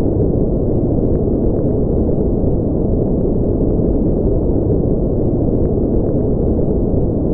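Steady noise played as a white noise track for sleep, deep and muffled, with its sound all in the low end and no changes in level.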